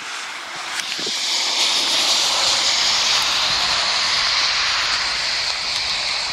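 A vehicle passing on a wet road: the tyre hiss swells about a second in, holds, and fades away near the end.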